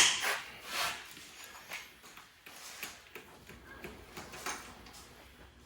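A sharp knock, then a few light clatters and scrapes as engine parts and tools are handled.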